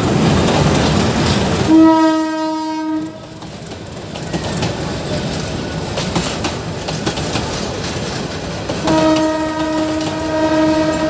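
A diesel-hauled passenger train passing close by. The locomotive rumbles past first. A train horn sounds as one steady tone for about a second and a half. As the coaches roll by, their wheels click over the rail joints, and the horn sounds again near the end.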